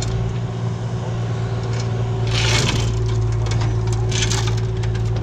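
An engine runs steadily under load while something crunches and cracks, with two louder crunches about halfway through and near the end, typical of frozen ground and ice breaking as a heavy object is dragged free.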